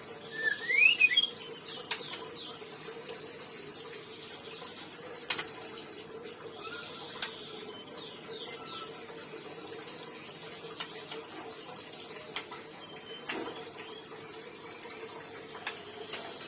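Murai chick begging with shrill chirps while being fed by its parent: a loud burst of rising chirps about half a second in, then scattered faint fast chirping and a few sharp clicks over a steady low hum.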